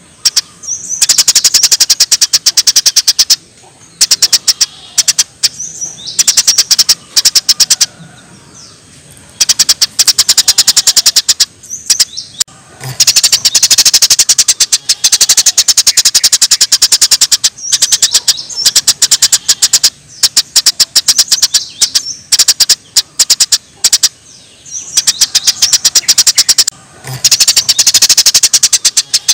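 Cililin song from a bird-training recording: very rapid rattling trills ('tembakan'), fired in bouts of a second or two with short pauses between them, over faint running water.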